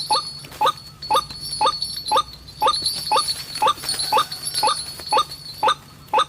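White-breasted waterhen call: short, sharp 'ruak' notes repeated steadily about twice a second, over a steady high-pitched whine.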